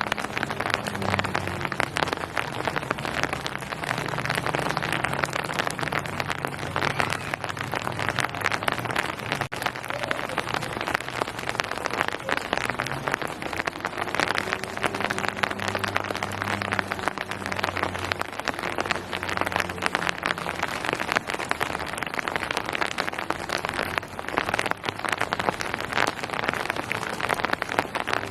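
Steady rain falling on a surface: a dense, continuous patter of drops. A low, steady hum runs underneath.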